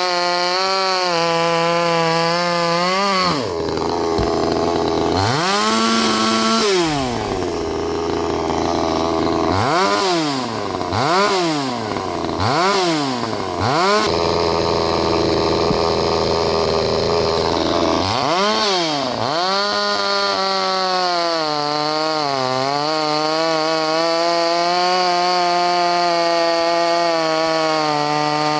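Vevor 6220 two-stroke chainsaw engine running hard, its pitch repeatedly dropping and climbing back as it is revved up and down in quick cycles. In the last third it holds a steady high rev.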